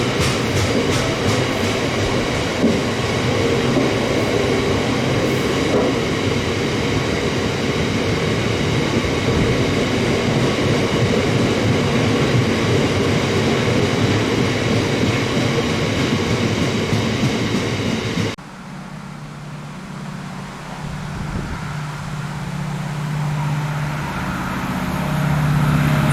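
A train passing close at speed, its wheels clattering over the rail joints in a steady loud rush of track noise. About 18 seconds in it cuts off abruptly to a quieter, low steady engine drone that builds toward the end.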